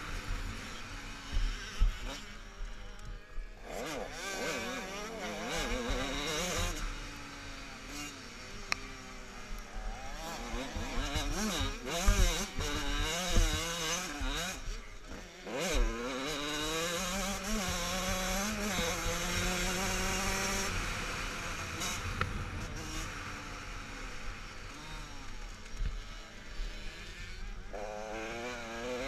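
Motocross motorcycle engines racing, revving up and dropping back again and again as the bikes accelerate and shift through the gears, with more than one bike heard at once at times.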